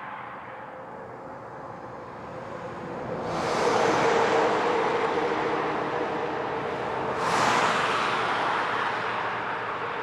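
Highway traffic: steady tyre and engine noise, with two vehicles passing close by, one about three seconds in and another about seven seconds in, each rising quickly and fading away.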